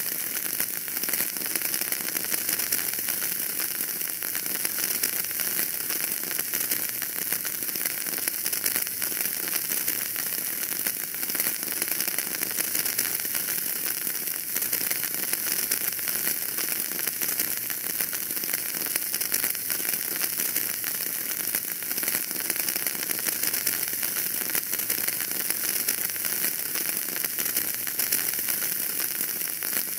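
Wood fire burning in a fireplace: a steady, dense crackle of small pops over a constant hiss.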